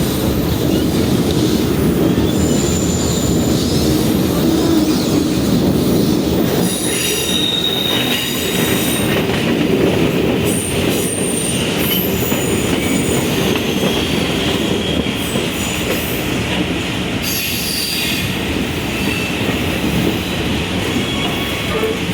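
Passenger train cars rolling along the track with a steady loud rumble, and steel wheels squealing in thin, high-pitched tones that come and go, most often in the middle stretch. Squeal like this is typical of wheel flanges grinding against the rail on a tight curve.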